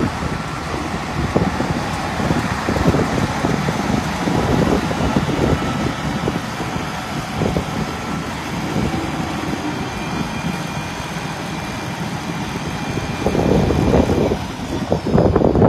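Diesel engine of a 1979 International Harvester 3588 2+2 four-wheel-drive tractor running steadily.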